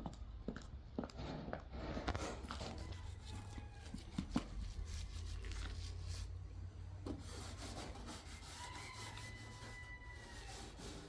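Irregular rubbing and scraping, as of a surface being scrubbed or wiped clean, with scattered light knocks in the first few seconds.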